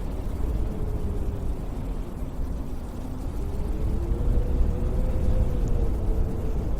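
Strong winter wind gusting, a heavy low rumble with a faint howling whistle that slowly rises and falls in pitch.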